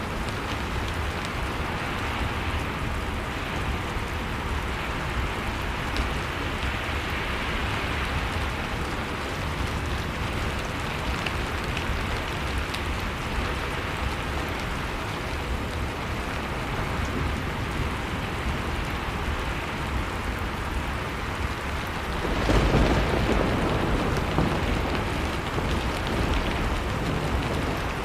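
Blizzard wind blowing steadily, with a wood fire crackling in a fireplace. A louder, deeper gust swells up about three-quarters of the way through.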